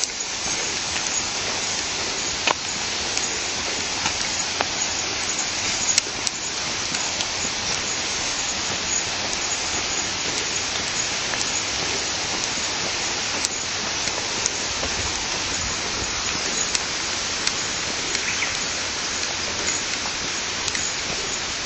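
Steady rushing of stream water, an even hiss with a few faint clicks.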